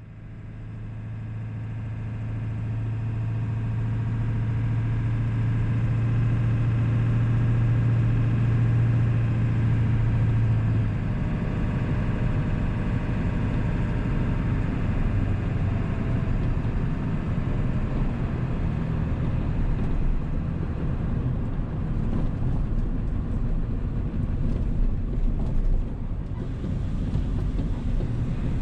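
1997 7.3 Powerstroke turbo diesel V8 running, the sound fading in over the first few seconds. A steady low hum drops away about eleven seconds in, leaving a rougher, more even engine and road rumble.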